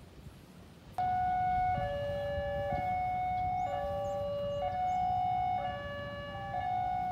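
Two-tone electronic siren starting suddenly about a second in, then alternating steadily between a high and a low note, each held just under a second.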